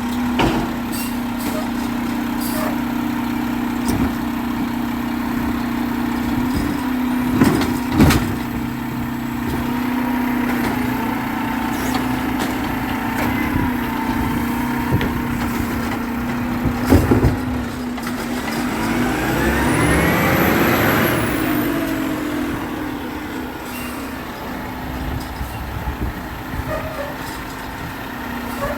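Garbage truck engine running steadily, with a few sharp knocks and clanks and a whine that rises and then falls about twenty seconds in.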